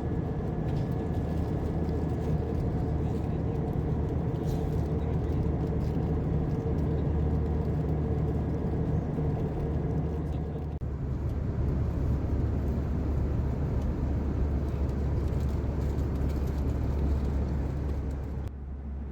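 Steady drone of an Airbus A321 cabin, with a low rumble and a few steady tones on top; the sound changes abruptly about halfway through, then carries on much the same.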